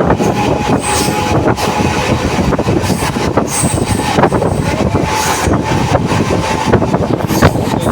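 Moving train: a steady rumble and rattle of wheels on the rails, with frequent irregular clicks and knocks and a faint thin steady whine.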